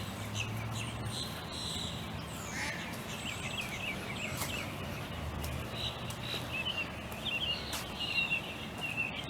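Small birds chirping and twittering in a quick series of short high calls, thickest in the second half.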